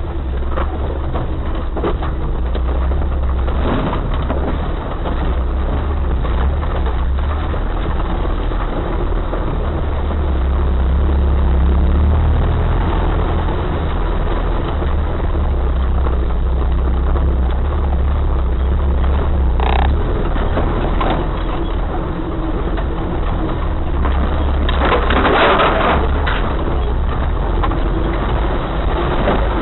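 Off-road vehicle's engine running as it drives, a steady low drone, with a louder burst of rattling noise about twenty-five seconds in.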